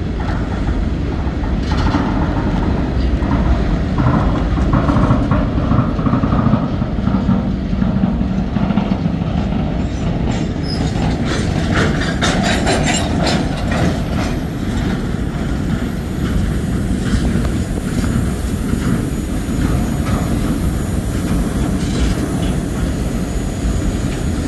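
Freight train of side dump railcars rolling steadily past: a continuous low rumble of steel wheels on rail. About halfway through comes a run of sharp clickety-clack as the wheels cross rail joints.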